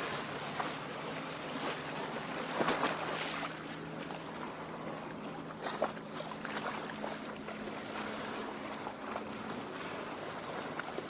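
Lake water lapping and splashing gently against the shore, with a few louder splashes about three seconds in and again about halfway through. A faint steady low hum runs underneath.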